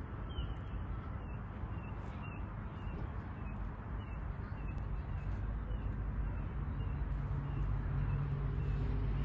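A bird chirping over and over, short slightly falling chirps about twice a second, over steady outdoor background noise; a low rumble builds toward the end.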